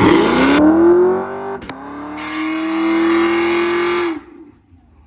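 Car engine revved hard: the pitch climbs for about a second and a half, breaks off briefly, then is held high for about two seconds before it drops away near the end.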